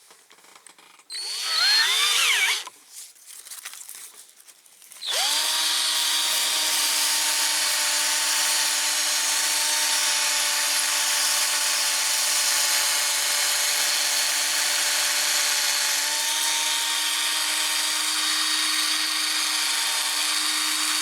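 Cordless drill spinning a small metal model axle while sandpaper rubs against it. There is a short burst about a second in that speeds up and slows down, then a steady run from about five seconds in. The drill's battery is running low.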